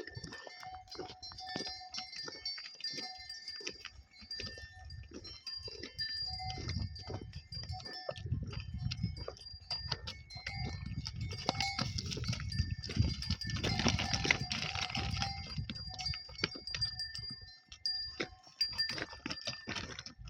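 Bells on grazing livestock clinking irregularly, many small strikes each ringing on, with a low rumbling noise through the middle.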